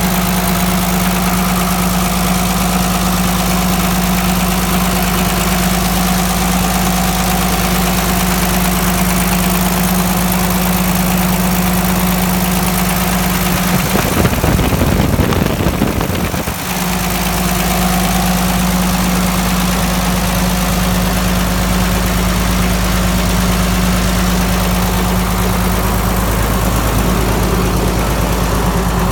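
Case 930 tractor engine idling steadily at an even, unchanging speed. About halfway through, a louder rough noise lasts a couple of seconds, then the steady idle carries on.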